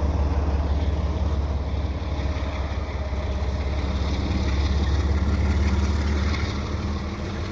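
CN freight train passing: a steady, loud low rumble of the train rolling by.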